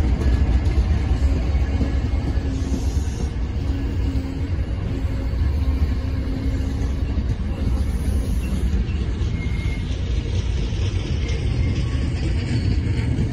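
MBTA commuter rail train of bilevel coaches rolling along the line: a steady low rumble, with a faint hum in the first several seconds.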